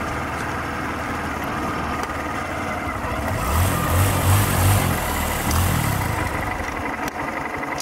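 Honda Grom's 125 cc single-cylinder engine running at low speed. About halfway through, its pitch rises and falls a few times under a rushing hiss.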